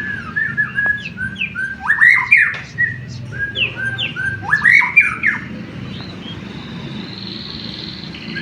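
White-rumped shama singing: a run of short clear whistles and sweeping notes, loudest in two bursts about two and five seconds in. Then it goes quieter, with a thin high buzz in the last second or so.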